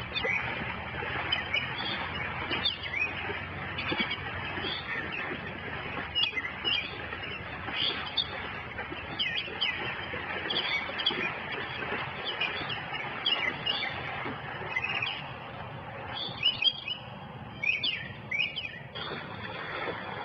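Wild birds chirping, short quick calls repeated throughout, over a steady background hiss.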